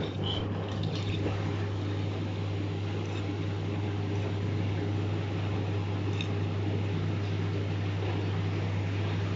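Washing machine drain pump switching on abruptly and running with a loud, steady low hum.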